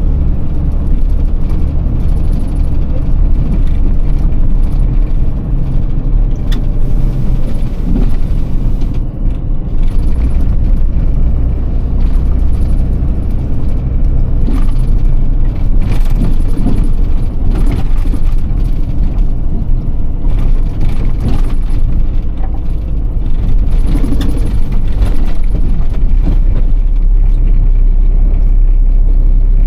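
Iveco Tector truck's six-cylinder diesel engine running while driving, a steady low drone whose level dips briefly about nine seconds in and again around twenty-two seconds.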